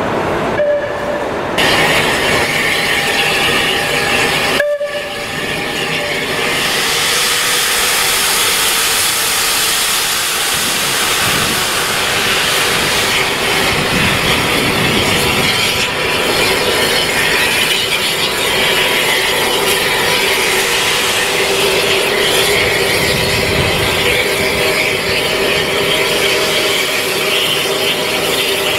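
A heritage railway train running by, loud and steady, with a dense rush of noise from about six seconds in. Steady tones grow stronger toward the end, and there is a brief break about five seconds in.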